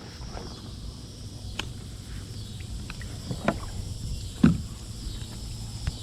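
Handling noise on a fishing kayak: a few short knocks and bumps against the hull, the loudest about four and a half seconds in, over a low steady rumble.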